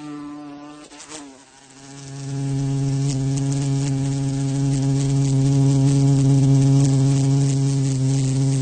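Flying insect buzzing: a wingbeat drone that wavers in pitch and loudness for the first couple of seconds as it moves, then swells about two seconds in to a loud, steady close-up buzz.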